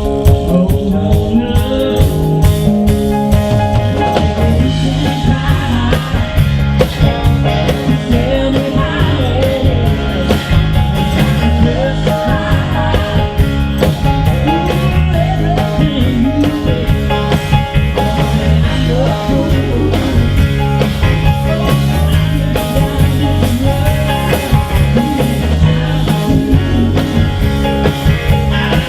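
A live country-rock band playing, with electric guitar, drums and singing.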